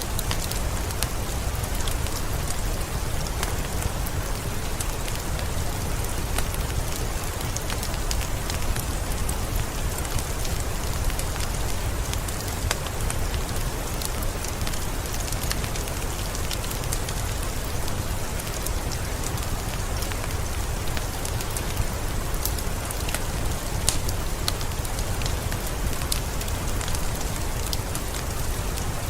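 Heavy rain falling steadily in a forest: a dense hiss of countless drop hits over a deep low rumble, with no thunder.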